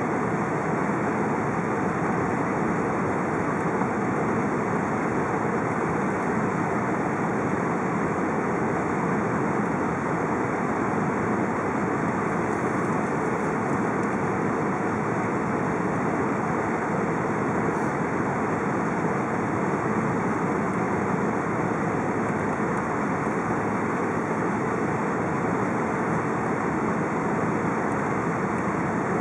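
Steady cabin noise of an Airbus A380 in flight: an even rush of airflow and engine rumble that does not change.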